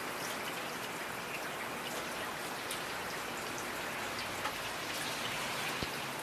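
Steady rainfall with scattered individual drops ticking and pattering on a surface, and a faint trickle of running water.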